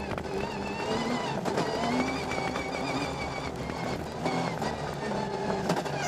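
Rally car engine heard from inside the cabin, revving hard with its pitch climbing and dropping repeatedly through gear changes. Several sharp knocks come through as the car runs over the rough dirt track.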